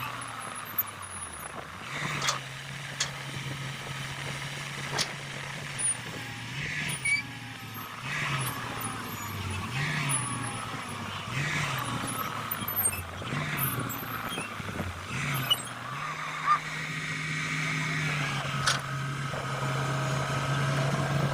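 Heavy diesel excavator engine working under load, revving up and dropping back about every second and a half, then holding a steadier higher speed near the end, with scattered metal knocks and clanks.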